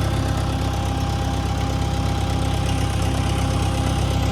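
Engine of an International 125 crawler loader idling steadily, with a thin steady tone riding above it. It is running so the transmission fluid level can be checked after a filter change.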